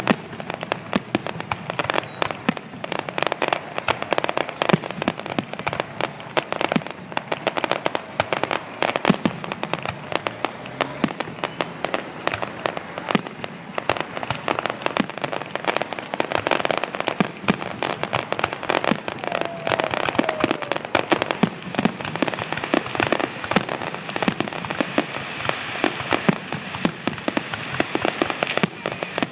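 Fireworks display: a dense, continuous barrage of sharp bangs and crackling explosions, many overlapping each second.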